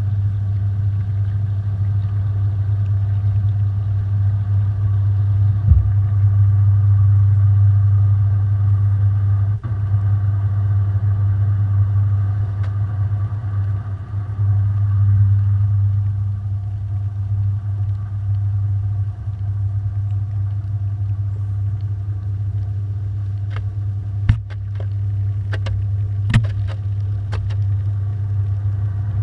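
Washing machine running, heard from inside its drum: a steady low motor and drum hum, with a few sharp knocks and a cluster of clicks near the end.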